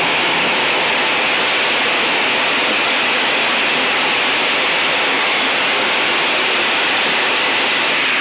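Steady, loud rushing noise of a truck on the move, heard from inside its cab: wind and road noise with no breaks or changes.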